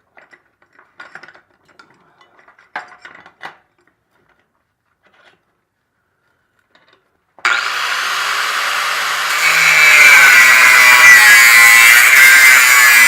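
A few light metallic clinks of parts being handled, then a power tool starts abruptly about seven seconds in, cutting into a metal exhaust pipe. It gets louder about two seconds later as it bites in.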